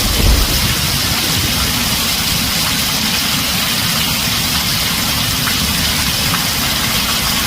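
Heavy rain drumming steadily on a tin roof, with the last of a low thunder rumble dying away at the start.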